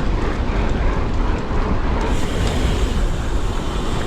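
Steady rumble of a Trek Fuel EX 7 mountain bike being ridden on a wet dirt trail, its tyres rolling and rattling over the ground, with wind buffeting the camera microphone.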